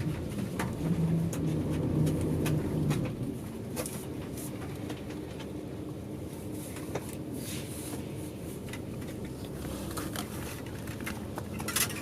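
Coach engine heard from inside the passenger cabin as the bus runs along the road: a low droning hum that is stronger for the first few seconds and then eases off, with light clicks and rattles from the bodywork.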